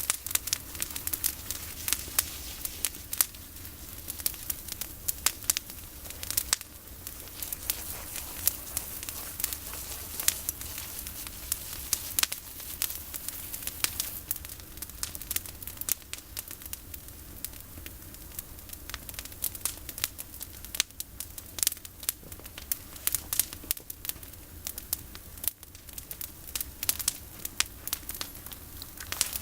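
Campfire of pruned olive branches burning, with many sharp crackles and pops throughout.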